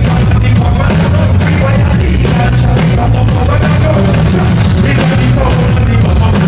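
Live band playing loud rock-ska music, heavy bass and drums, with some singing, as heard through a camera microphone in the crowd.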